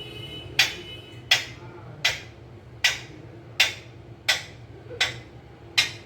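Pet ringneck parrot making sharp clicks, evenly repeated about every three quarters of a second, eight times, with a faint high whistle under the first second.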